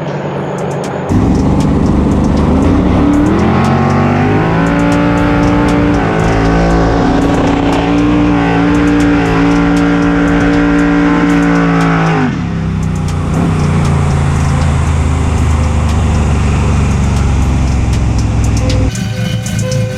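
A race car's engine at full throttle: its note climbs a few seconds in, holds high and steady, then drops sharply about twelve seconds in and settles lower.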